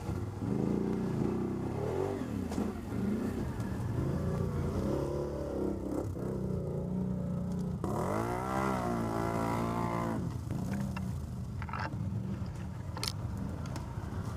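ATV engine running under changing throttle, with one strong rev rising and falling about eight seconds in. A few sharp knocks near the end.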